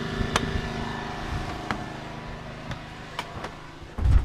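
A heavy machine's engine running steadily, with three sharp clicks along the way and a heavy low thump near the end.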